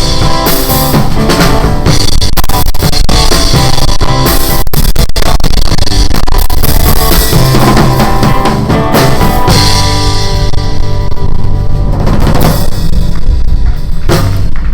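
Instrumental rock music with a full drum kit and guitar playing without vocals; the cymbal wash thins out in the last few seconds.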